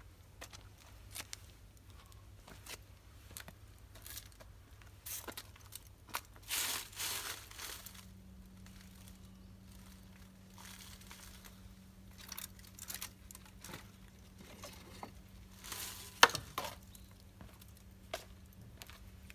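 Intermittent crinkling and rustling handling noise with scattered small clicks and taps. There is a louder rustle about seven seconds in and a sharp click about sixteen seconds in.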